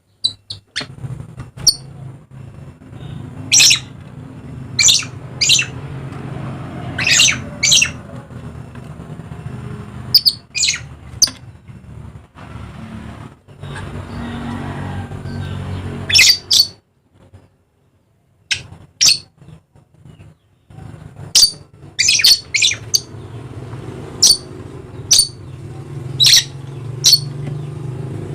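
Dusky lories giving short, sharp, harsh screeches, repeated every second or so, over a steady low hum. The sound cuts out briefly twice midway.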